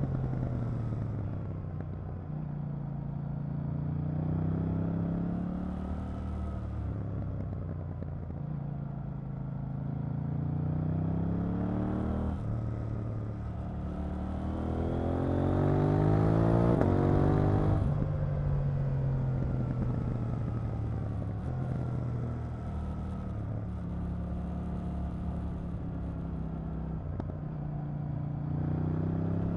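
KTM 890 Duke R's parallel-twin engine under way, its note rising and falling with throttle and gear changes. Just past the middle comes the longest, loudest pull, climbing steeply before it drops sharply.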